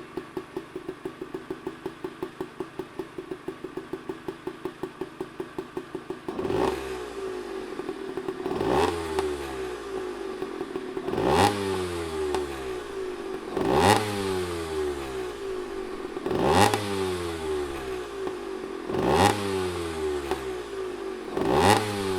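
1972 Yamaha GT50's 50cc two-stroke single-cylinder engine. It idles with an even pulsing beat for about six seconds. The throttle is then blipped about seven times, every two and a half seconds or so, each rev rising sharply and falling back to idle.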